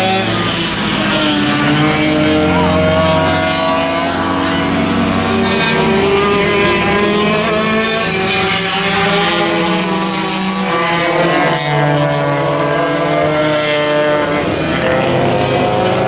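Several vintage racing kart engines running at once on track, their pitch rising and falling as the karts accelerate and slow.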